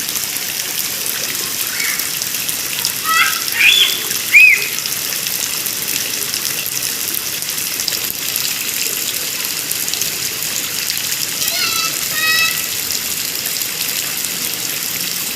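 Steady rain falling, with children's high voices calling out briefly a few seconds in and again later.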